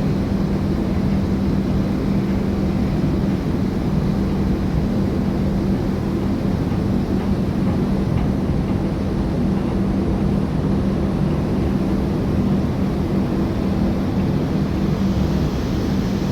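A ship's engine running steadily: a constant low drone with a steady hum over it, unchanging throughout.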